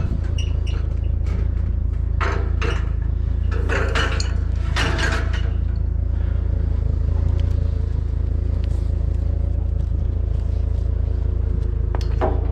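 Vehicle engine running steadily with a low rumble, with short bursts of metal scrap clanking and scraping at irregular intervals.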